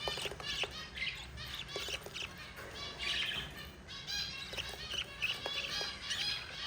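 Budgerigars, a mother and her chicks, chirping and chattering in a dense run of quick high chirps: the chicks begging while being fed.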